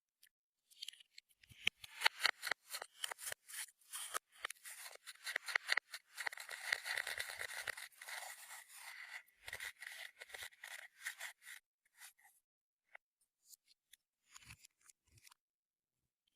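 Clear slime being worked by hand, giving a dense run of small sticky clicks and crackles. The clicks come thickest around the middle and thin out to scattered pops after about twelve seconds.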